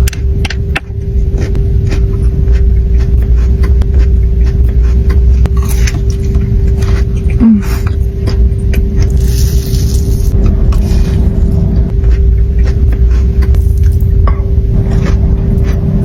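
A steady low rumble under a constant hum, with scattered clicks and scraping noises over it.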